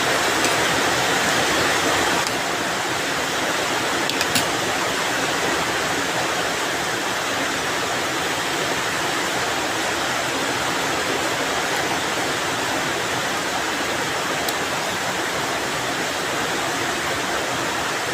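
Rain falling steadily, a dense even hiss that dips slightly in level about two seconds in, with a brief tap around four seconds.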